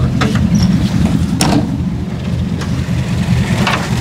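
Carbureted four-cylinder engine of a 1970s Toyota Corolla idling steadily with a loud exhaust note from its aftermarket header and open air filter. A few sharp clicks come through as the bonnet is unlatched and lifted.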